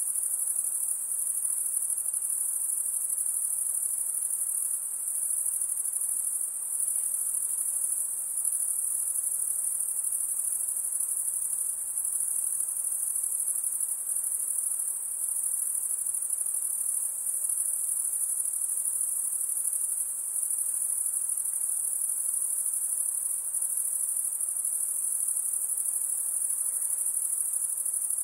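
Insects trilling in a continuous, high-pitched, steady chorus.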